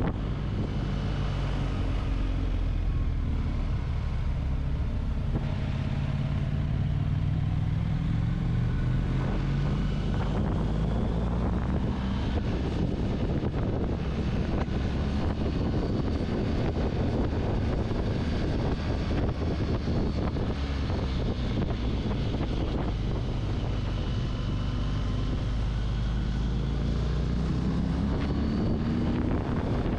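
Adventure motorcycle engine running on the open road, heard from the bike's own mount with wind noise on the microphone. Its pitch climbs as the bike accelerates, once in the first few seconds and again near the end.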